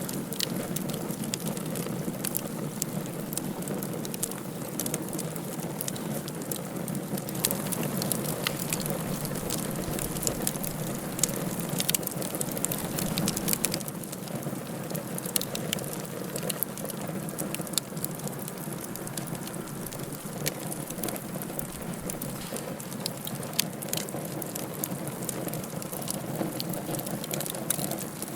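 Wood fire burning in a fireplace: a steady rushing hiss with frequent, irregular sharp crackles and pops.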